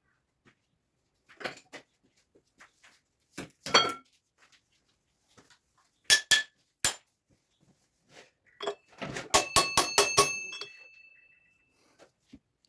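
Metal tools and parts clinking and knocking against one another, with a quick run of about eight ringing metal taps a second, lasting about a second and a half, near the end.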